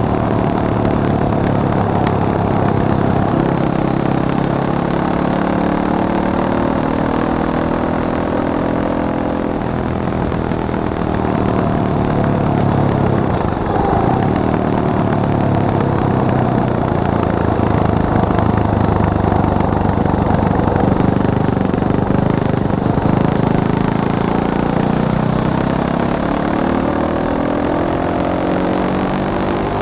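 Fantic Caballero 500 Flat Track's single-cylinder engine running under way, its pitch rising and falling as the revs climb and drop, with sudden steps down a couple of times like gear changes.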